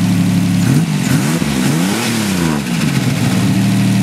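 Car engine idling, then revved up and back down a few times, the highest rev about two seconds in, before it settles back to a steady idle.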